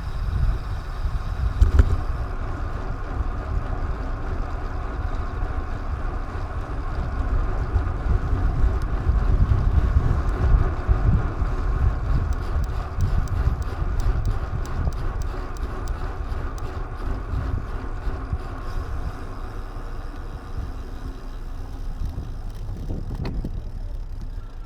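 Wind buffeting and road noise from a ride, picked up by a mounted action camera, as a heavy low rumble. A stretch of light rapid ticking comes through in the middle.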